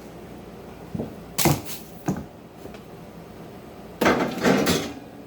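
Items and containers being handled and set down in a refrigerator: a few short knocks about a second in, then a longer clatter and rustle about four seconds in.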